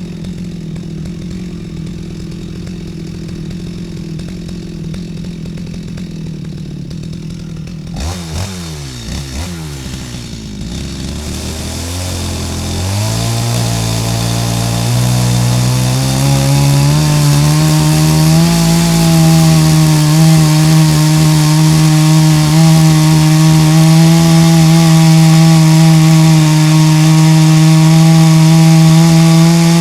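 Stihl MS 250 two-stroke chainsaw running steadily. About eight seconds in, the sound changes and the engine's pitch climbs for about ten seconds. It then holds steady and louder as the chain saws through the wood.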